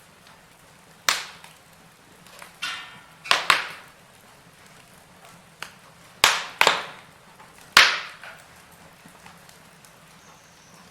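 Wood fire in a fireplace crackling: about seven sharp, irregularly spaced pops, some in quick pairs, over a faint steady hiss.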